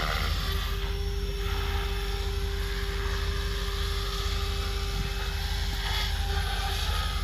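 Electric SAB Goblin Pro RC helicopter with a three-blade main rotor in flight, its rotor and motor making a steady, even whine.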